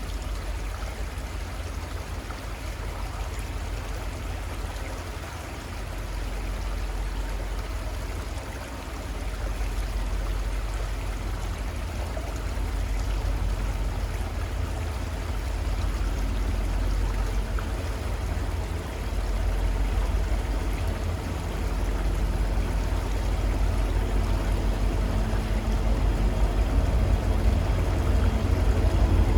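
Steady rush of a flowing river with a deep low rumble underneath. The sound grows gradually louder, and in the last few seconds the steady hum of an approaching motor vehicle's engine rises over the water.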